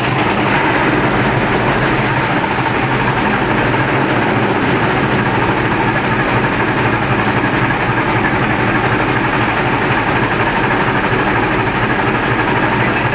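75–90 hp Kahlenberg oil engine running steadily, just started.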